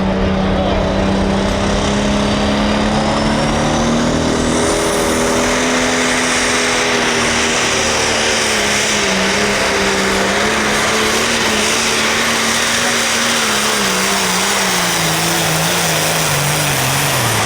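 International 1066 pulling tractor's turbocharged 540-cubic-inch diesel running flat out under the pull of the weight-transfer sled, with a high turbo whistle that rises over the first few seconds and then holds. The engine note climbs a little, then slowly sags as the load builds, and drops away near the end as the run finishes.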